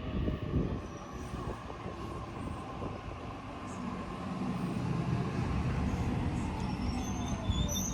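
Sydney Trains Tangara electric train running through the station, a steady rumble of wheels on rail that grows louder from about halfway in; a high-pitched squeal starts right at the end.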